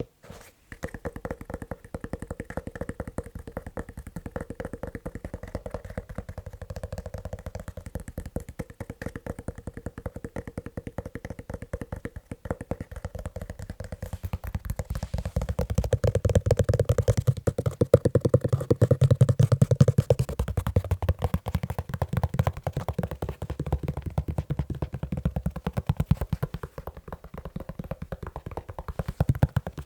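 Fast, continuous tapping on a leather shoe, a dense run of hollow knocks with many taps a second. The tapping gets louder and deeper a little past the middle, then eases back.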